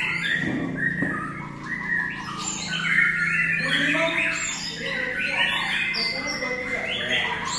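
Several caged white-rumped shamas (murai batu) singing at once, a dense, unbroken stream of overlapping whistles and chirps, over a low steady hum.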